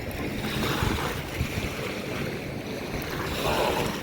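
Wind rumbling on the microphone over a steady wash of water and waves at a beach.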